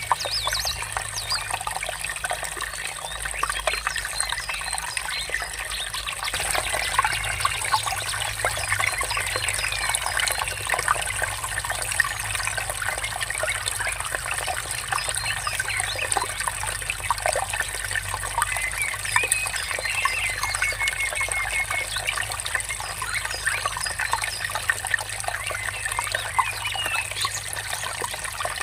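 Water trickling and babbling steadily over stones in a small stream, with birds chirping now and then.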